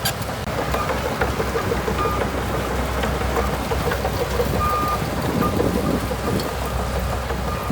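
Bulldozer's diesel engine running steadily under working load, with clanking and rattling from the machine. A few short high beeps sound about two and five seconds in.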